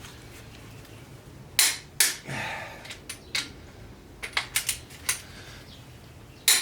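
Irregular sharp metallic clinks and knocks of hand tools against metal engine parts: two loud ones about a second and a half in, then a scattered run of lighter clicks and another loud knock near the end.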